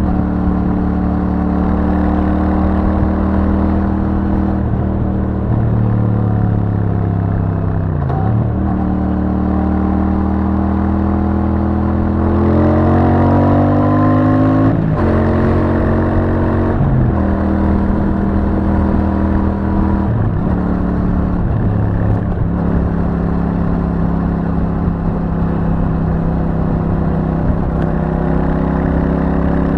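Royal Enfield Super Meteor 650's parallel-twin engine running through its stock exhaust while riding. The engine note sags and rises with speed, climbs steadily about twelve seconds in, then drops sharply about fifteen seconds in, as at a gear change.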